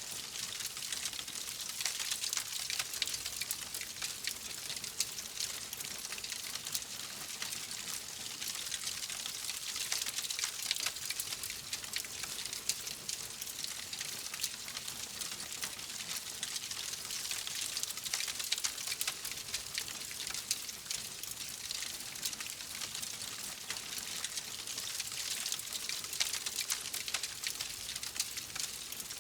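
Fireplace fire crackling: a steady hiss with dense, irregular small pops and snaps.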